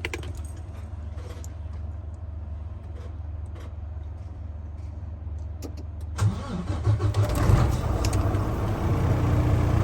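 A steady low hum, then about six seconds in the Volvo semi truck's diesel engine cranks and catches on a cold start, surging unevenly before settling into a steady idle.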